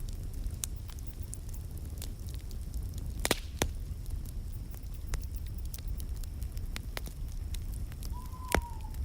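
Wood fire burning with a steady low rumble and scattered sharp crackles, two louder pops about three seconds in and near the end. A brief faint falling whistle comes just before the last pop.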